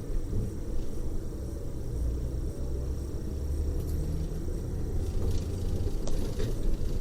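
Coach bus driving, heard from inside the passenger cabin: a steady low rumble of engine and road noise, with a few faint light clicks or rattles near the end.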